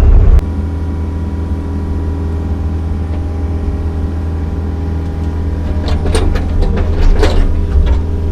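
Kobelco SK55 mini excavator's diesel engine running steadily, heavier and louder for the first half second before easing off. From about six seconds in comes a run of short scraping, rattling noises as the bucket works the dirt.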